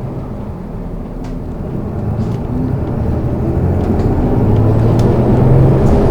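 City bus engine running under load and growing steadily louder as the bus gathers speed, heard from inside the cabin, with a few light rattles.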